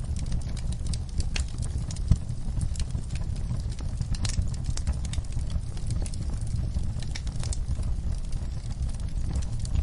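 Fire burning in a fireplace: scattered crackles and pops over a steady low rumble, with one louder pop about two seconds in.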